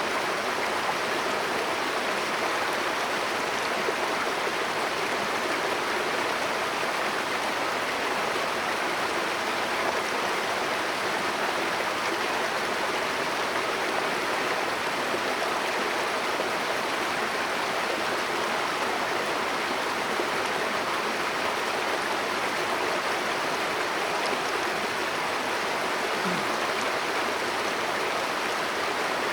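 Mountain headwater stream running, a steady rush of water with no change throughout.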